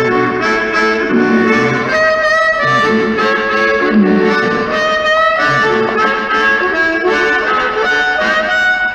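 Blues harmonica solo, a run of held notes that change every half second or so, over lower accompanying tones and a steady hiss of rain.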